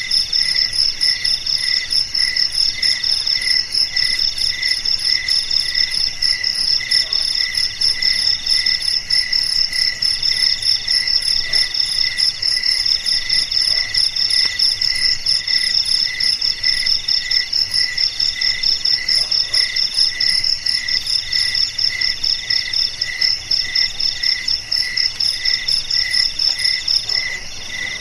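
Chorus of crickets chirping, several callers at once: a fast, high pulsing trill, a lower chirp repeating about twice a second, and trills about a second long with short gaps between them. The highest trill stops near the end.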